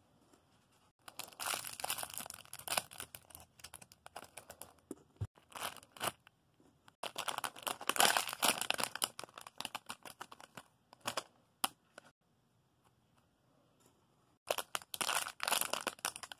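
Plastic packaging crinkling and rustling as squishy toys are handled and sorted, in several bouts of crackling with short quiet gaps between.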